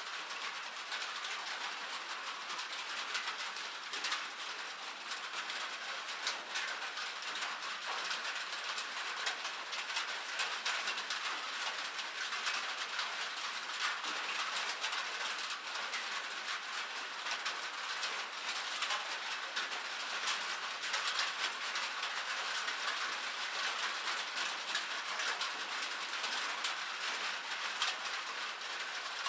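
Rain falling, with many drops pattering in a dense, steady crackle.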